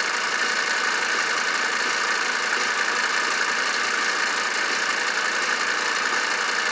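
Mercedes C 250 Turbodiesel's five-cylinder diesel engine, converted to run on vegetable oil, idling steadily.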